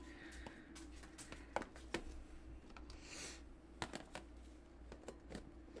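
Scattered light clicks and rustling from a plastic food bag of cooked wild rice being handled, with a brief crinkle about three seconds in, over a steady low hum.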